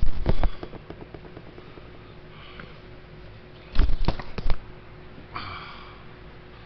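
A person sniffing: two short bouts of quick, sharp sniffs about four seconds apart, then a softer breath.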